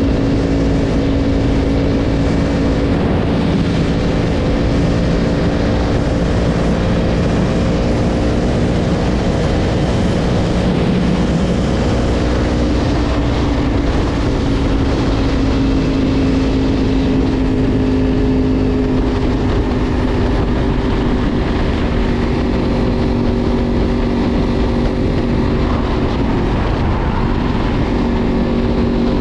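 Yamaha R1 sport bike's inline-four engine running at a steady cruise, its note holding nearly level with a slight drop in pitch about midway and again near the end, over a steady rush of wind and road noise.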